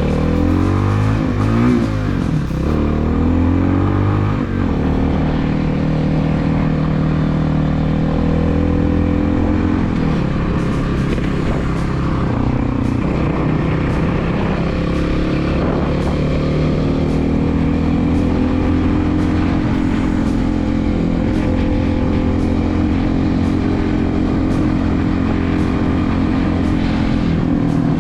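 Hawk 250's single-cylinder 250cc engine running under way while the motorcycle is ridden. The revs rise and fall through gear changes for the first few seconds, then hold fairly steady at a cruise.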